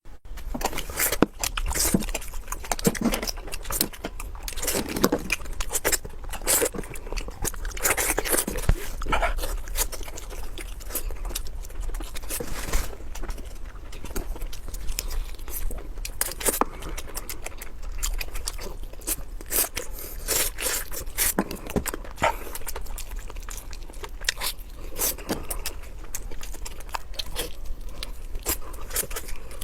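Close-up eating sounds of seafood and Korean instant noodles: irregular chewing, biting and crunching with many small clicks and scrapes.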